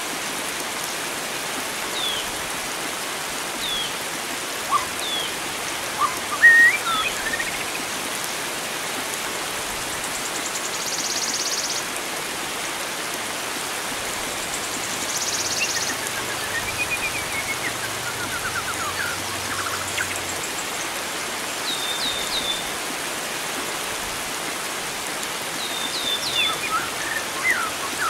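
Steady rush of flowing water, like a stream or rain, with scattered wild bird calls over it: short falling chirps, a brief trill in the middle, and a cluster of chirps near the end.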